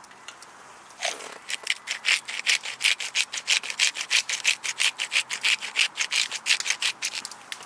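Hand saw cutting through wood in quick, even back-and-forth strokes, about four or five a second, starting about a second in.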